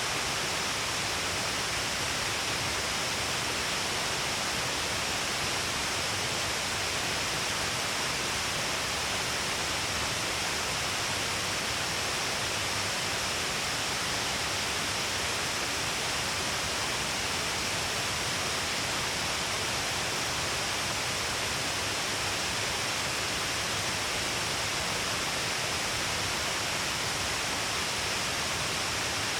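Shiraito Falls, a wide curtain of many thin falls along a cliff, pouring steadily: an even, unbroken rush of falling water and spray.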